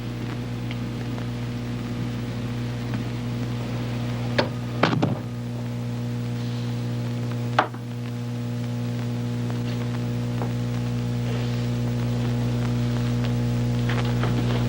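Steady low hum with a few scattered clicks and knocks, the loudest about five seconds in and another near eight seconds, as on an old film soundtrack.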